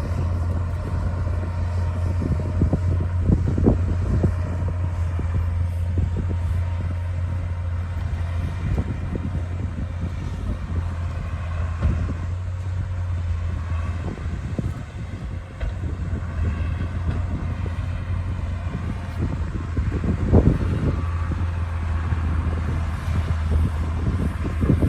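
D60 bulldozer's diesel engine running steadily under load, with scattered knocks and cracks, the loudest about twenty seconds in.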